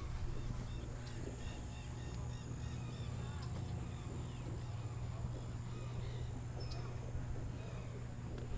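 Birds calling, with a run of short repeated chirps about three seconds in, over a steady low hum.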